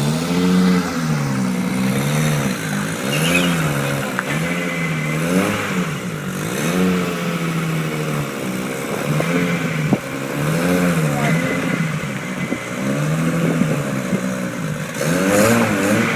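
Nissan GT-R with a Supersprint aftermarket exhaust being revved in repeated short throttle blips, the exhaust note rising and falling about once every second or so.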